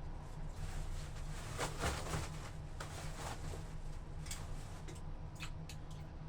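Wet laundry being handled in water: scattered splashes, squelches and clicks, the busiest stretch about two seconds in.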